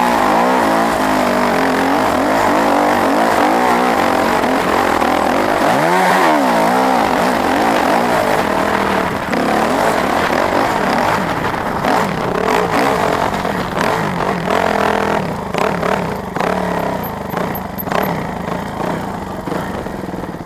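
Off-road motorcycle engine revving up and down as the throttle is opened and closed while riding. Knocks and rattles run through the second half.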